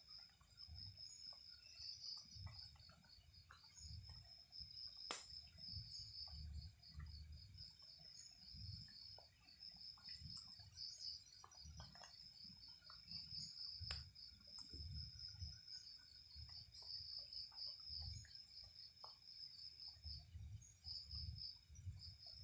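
Night insects chirping in a continuous high, pulsing trill, with faint low rumbling and scattered small clicks underneath.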